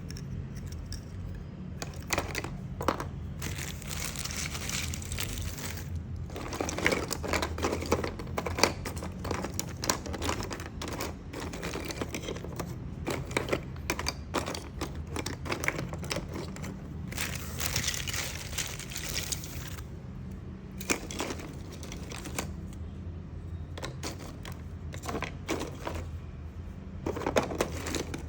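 Small pieces of agarwood being handled, with many irregular clicks and knocks of wood on wood and rustling, over a steady low hum.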